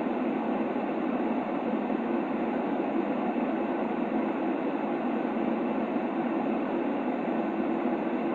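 Steady, unchanging white-noise track for lulling a baby to sleep: an even, muffled rush heaviest in the low-middle range, with no breaks or events.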